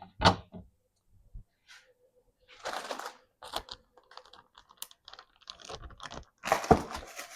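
Scattered light clicks, taps and rustling from kitchen containers and food packaging being handled, with a rustle about two and a half seconds in and a busier run of clicks near the end.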